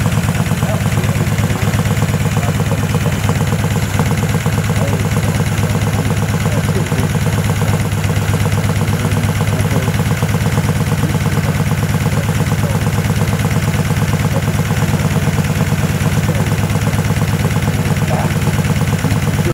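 Morgan three-wheeler's exposed V-twin engine idling steadily, with an even, rapid beat.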